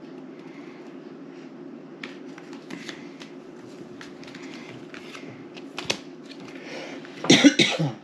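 Playing cards being handled and laid on a table: scattered soft clicks and slaps over a steady low room hum. A short loud burst near the end.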